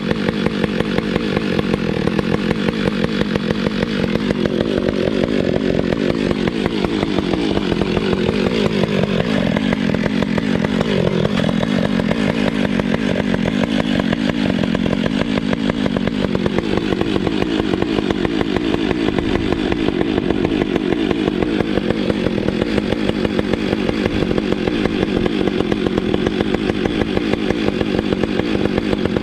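Chainsaw engine running continuously, its pitch wavering for several seconds in the middle.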